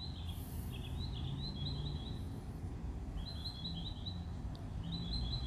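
A bird singing several short phrases of quick high chirps, with pauses of about a second between them, over a faint low rumble.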